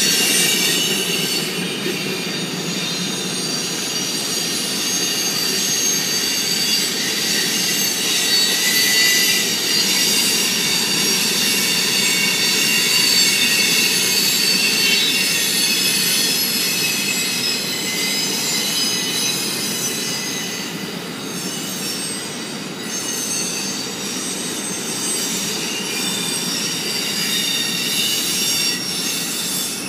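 Freight cars of a passing freight train rolling by on steel rails, their wheels squealing in several high, steady tones over the continuous rolling noise of the cars.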